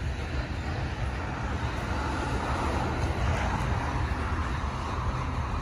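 Freight train's covered hopper cars rolling past at close range: a steady rumble and rush of steel wheels on the rails.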